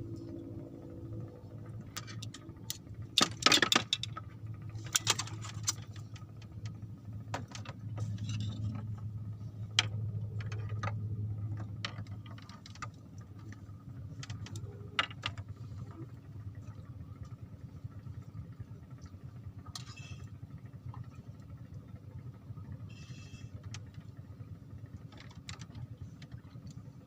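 Steady low hum of a running motor that swells for a few seconds midway, with scattered sharp clicks and rattles, the loudest a quick clatter about three seconds in.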